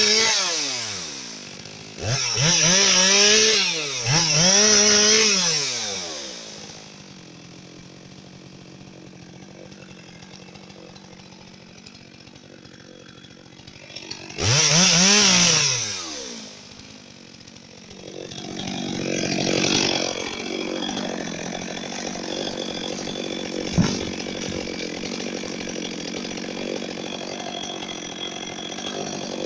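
Chainsaw revved up in short bursts, its pitch rising and falling, and dropping back to idle between them: three quick revs in the first few seconds and another about halfway. One sharp knock comes near the end.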